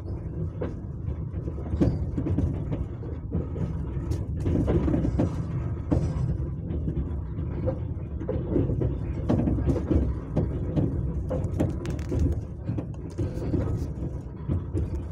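Passenger train running on the rails, heard from on board: a steady low rumble of the wheels with frequent irregular knocks and rattles.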